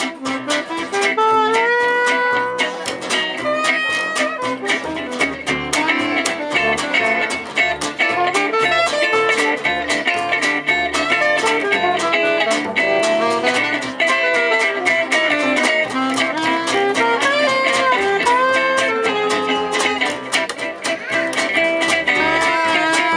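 Gypsy-jazz band playing an instrumental break live: acoustic rhythm guitar strumming a steady beat under a lead melody with sliding notes.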